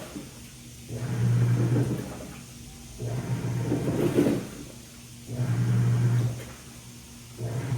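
Washing machine in its wash cycle: the motor hums as the drum turns the laundry with a swishing sound for about a second and a half, stops for about a second, then turns again, four times over.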